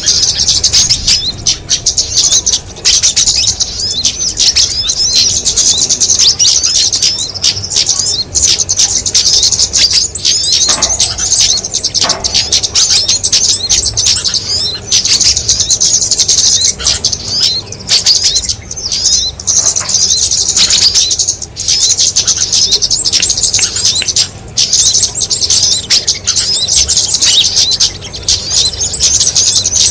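A bird-lure mix of many small songbirds calling at once: a dense, unbroken tangle of rapid high-pitched chirps and trills. It is the kind of layered multi-species call track played to draw small birds in.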